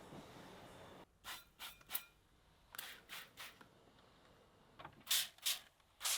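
A steady low background hum that cuts out about a second in, followed by short hissing or scratchy strokes in small groups of two or three.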